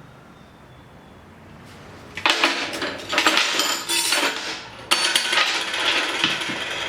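Quiet room tone, then about two seconds in a harsh scraping tool noise starts and runs on in rough strokes.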